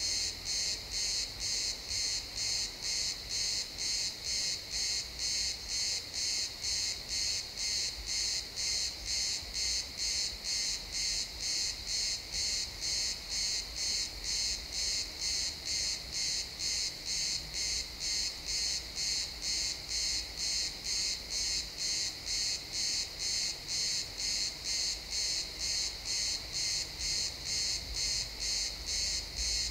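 Crickets chirping in a steady, even rhythm of about two high-pitched pulses a second, with no letup.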